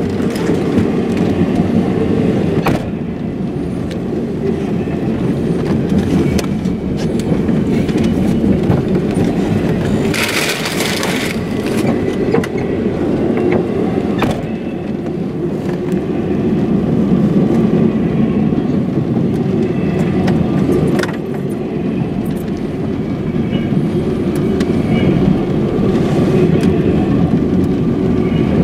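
Double-stack intermodal freight cars rolling past close by: a steady, loud rumble of steel wheels on rail with scattered sharp clicks and knocks. A brief hiss rises over it about ten seconds in.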